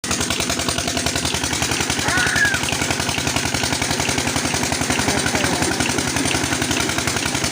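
Old single-cylinder Petter diesel engine running steadily at speed with an even, rapid firing beat, driving a tubewell pump.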